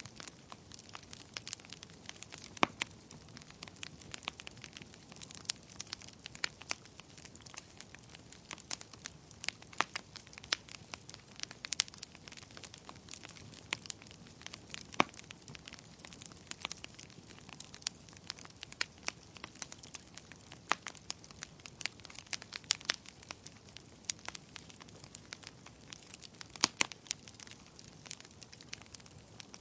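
Wood fire of burning logs crackling: irregular sharp pops and snaps over a faint steady hiss of the flames.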